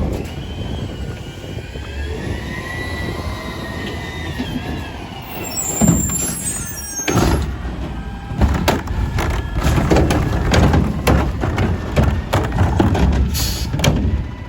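Autocar ACX garbage truck with a McNeilus Contender body at work. A whine wavers up and down in pitch for about five seconds, then a short hiss of air comes about six seconds in. From about seven seconds on, a rapid run of knocks and clatter plays over the truck's low rumble.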